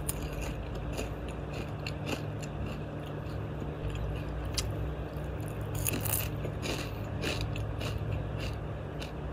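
A person chewing and biting food made with mugwort close to the microphone, with small crunchy clicks scattered throughout over a steady low hum.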